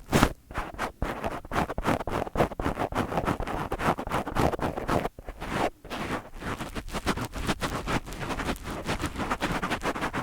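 Fingertips rubbing and scratching directly on a microphone: a dense, fast run of scratchy brushing strokes, with brief pauses about five and six seconds in.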